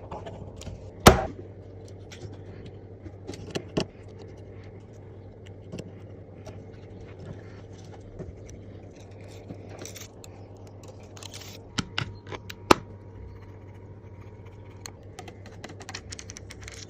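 Small hand tools clicking, tapping and scraping during an iPad repair, with sharp clicks about a second in and again near the end, over a steady low hum.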